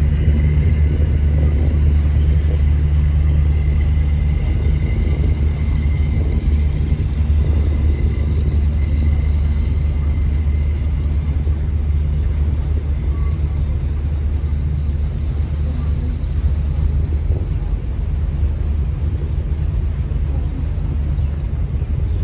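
Chao Phraya tourist river boat's engine running steadily at cruising speed: a constant low drone with a steady hiss over it.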